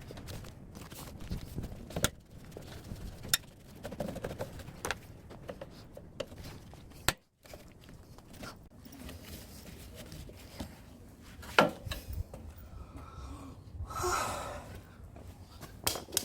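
Irregular sharp knocks, clicks and scraping from an air-conditioner outdoor unit being dismantled by hand for scrap, with a brief rustling clatter near the end.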